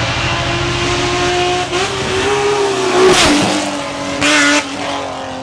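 Hill-climb race car engine running hard at high revs, loudest as it sweeps past about three seconds in. A short sharp high-pitched burst follows about a second later.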